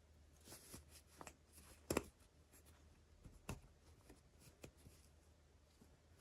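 Faint clicks, taps and rustling of hands handling small miniature toys and their packaging, with two sharper taps about two and three and a half seconds in.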